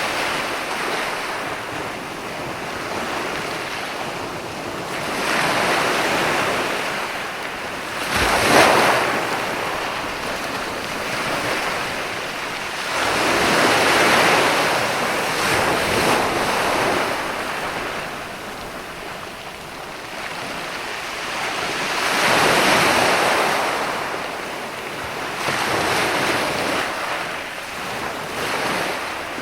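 Ocean waves breaking on a sandy beach, the surf swelling and washing back every few seconds, with the sharpest break about eight seconds in. Wind buffets the microphone.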